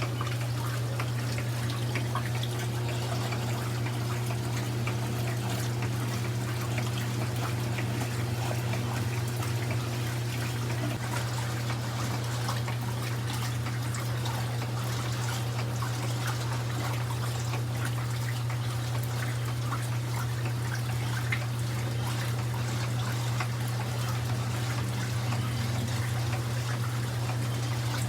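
1982 Brastemp Luxo washing machine loaded with bedsheets, running with a steady low hum while water pours and trickles; a fainter higher tone drops out about a third of the way in.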